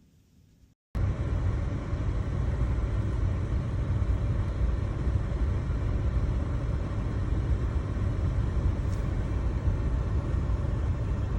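A steady, loud, low rumbling noise that starts abruptly about a second in and runs on without a clear pitch or rhythm.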